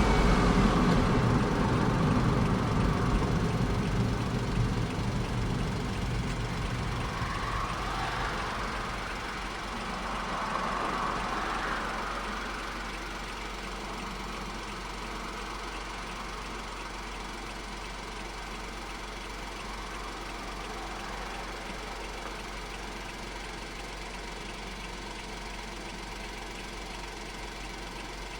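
Honda S660's 658 cc turbocharged three-cylinder engine running, louder at first with a couple of brief swells about a third of the way in, then settling to a steady idle for the rest.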